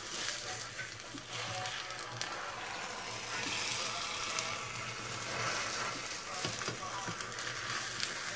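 Egg and potato omelette sizzling steadily as it fries in a nonstick pan, with a few light scrapes and taps of a spatula lifting its edge, over a steady low hum.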